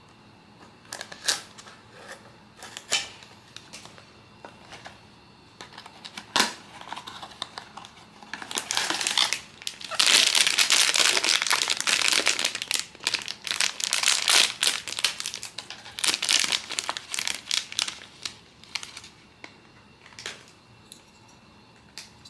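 Blind-box packaging being handled and crinkled: a few sharp crackles at first, then a long stretch of dense crinkling in the middle, then scattered clicks.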